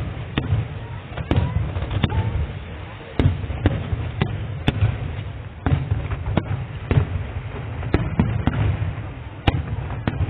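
Fireworks display: about fifteen sharp bangs of shells bursting at uneven intervals, over a steady low rumble.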